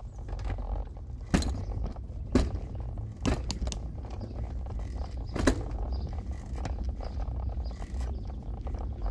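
Steady low rumble of a car driving, heard inside the cabin, with about five sharp knocks and rattles at uneven spacing in the first half.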